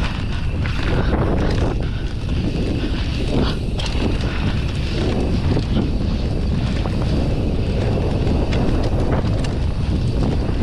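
Wind buffeting the microphone of a camera on a mountain bike descending a trail at speed, with tyre noise and scattered knocks and rattles from the bike over rough ground.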